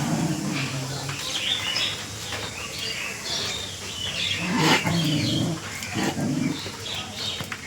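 Birds chirping repeatedly in short high calls, with a few lower, pitched calls at the start, in the middle and about two-thirds of the way through.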